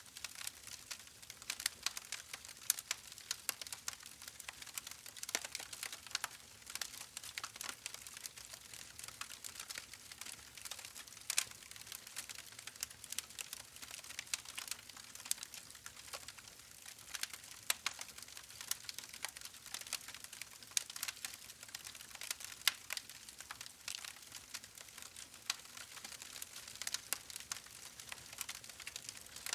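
Wood fire burning in a fireplace: constant crackling, with many small irregular pops and snaps over a soft hiss.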